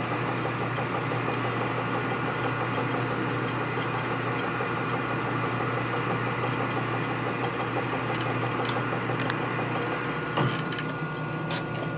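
Motor-driven hone with abrasive stones running steadily in an oiled bore, a steady machine hum under a grinding hiss. The hiss fades about two-thirds of the way through, and a single knock follows shortly after.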